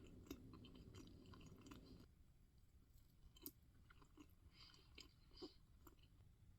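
Close-miked chewing of soft carrot cake: quiet, moist mouth sounds with scattered small clicks and smacks. A low background hum cuts off about two seconds in.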